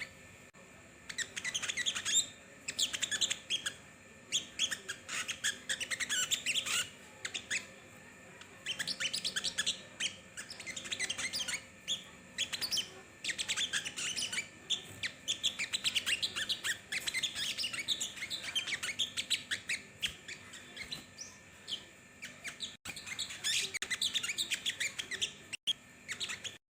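Small songbird (sogon) singing a fast twittering song of high chirps and squeaky notes, in long runs broken by brief pauses; it cuts off suddenly near the end.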